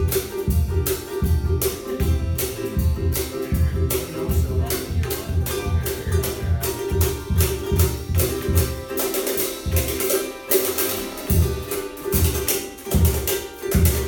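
Ukulele strummed fast and rhythmically in an instrumental passage, with a steady low beat underneath.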